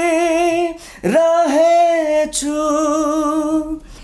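A man singing a Nepali love song unaccompanied, holding long notes with vibrato. There is a short breath about a second in, and the line ends shortly before the close.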